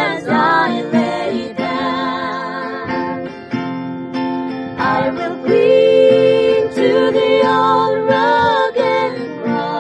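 Female vocal trio singing a slow hymn over strummed acoustic guitar, drawing out the closing words in long held notes.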